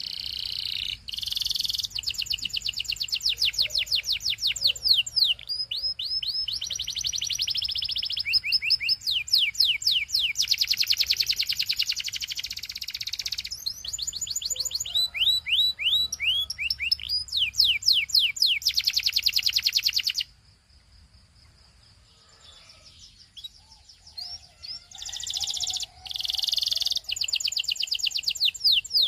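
Belgian canary singing in long rolling tours: fast trills and runs of repeated, quickly sliding high notes, each phrase several seconds long. It stops about two-thirds of the way through, is nearly quiet for a few seconds, then starts again near the end.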